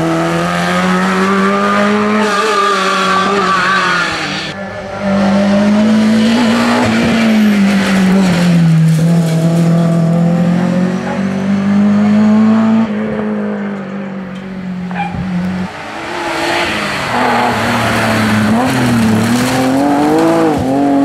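Historic rally car engines revving hard up and down through the gears, with tyre squeal. The sound changes abruptly about four seconds in and again near sixteen seconds, as a different car takes over.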